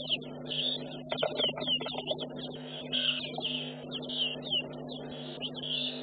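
Small birds chirping and twittering, many quick sliding chirps overlapping, over a steady low hum.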